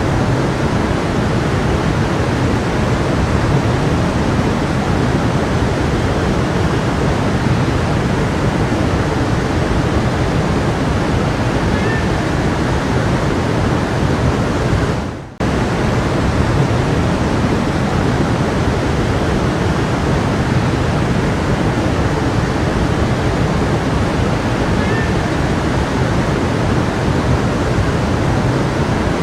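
Steady rushing of a flowing creek. The sound dips sharply for a moment about halfway through, then resumes at the same level.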